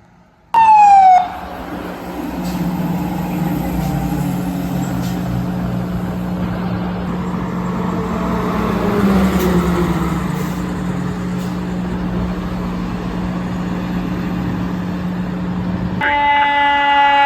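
Fire truck responding with its siren. A loud siren tone falls sharply just after the start. Then the truck's engine drones steadily while a siren winds down slowly in pitch around the middle, and a loud, steady multi-tone blare begins near the end.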